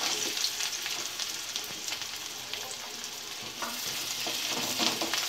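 Chopped onion dropped into hot oil in a kadai, with ginger and garlic already frying, sizzling steadily. In the second half a wooden spatula stirs it and scrapes the pan.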